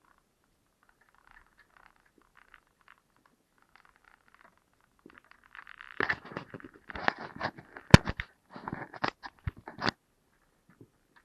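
Close crunching and scraping with sharp clicks, faint at first and then, about five seconds in, a dense run lasting some four seconds before it stops.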